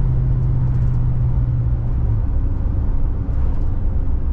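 Car driving on a road, heard from inside the cabin: a steady rumble of engine and tyre noise. A steady low engine hum drops away about two seconds in.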